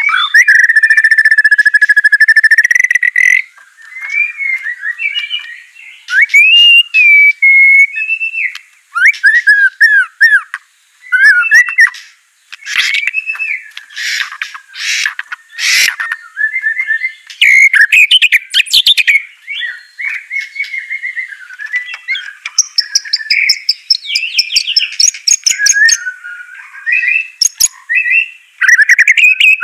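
White-rumped shama (murai batu) singing a loud, varied song: a long held whistle at the start, then quick gliding whistled phrases, harsh rasping notes around the middle, and fast trills toward the end.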